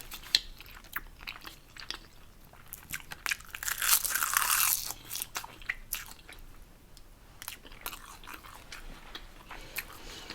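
Close-miked eating sounds of Samyang 2X Spicy noodles: chewing with many small wet mouth clicks. One longer, noisier sound comes about four seconds in.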